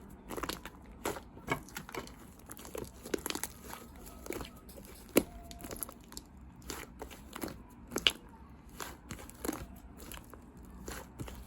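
Fluffy clay slime being squeezed and stretched by hand, giving irregular crackling, snapping pops several times a second, with a couple of louder snaps about five and eight seconds in.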